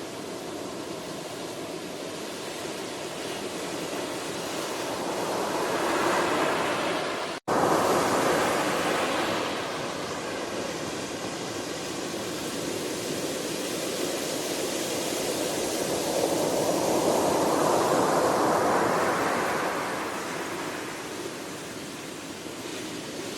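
Ocean waves washing on a shore, swelling and ebbing in long surges, with a split-second dropout about seven seconds in.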